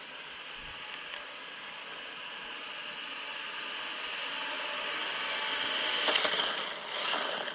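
Brushed 370 electric motor and gearbox of a 1/16-scale 4WD RC drift truck whining at full speed over tyre noise. It grows louder as the truck approaches, peaks about six seconds in, then drops away.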